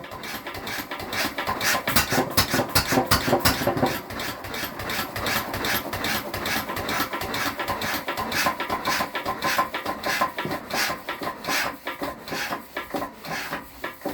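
Lister MH 5 hp stationary engine running, a fast regular beat of firing strokes and valve clatter that grows somewhat quieter near the end.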